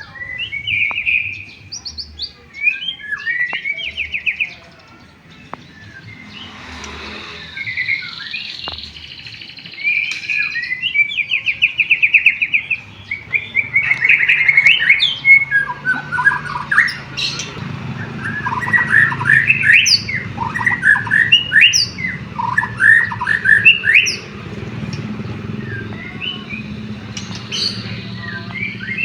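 White-rumped shama (murai batu) singing a loud, varied song of fast trills and sharp chirps, with canary-like phrases worked into it. The song gets denser and louder about halfway through.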